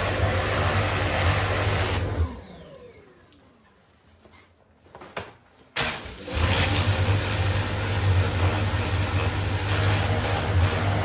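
High-pressure washer running and spraying. About two seconds in its motor cuts out and winds down with a falling whine, as when the trigger is released. It starts again with a sharp click a few seconds later and runs steadily.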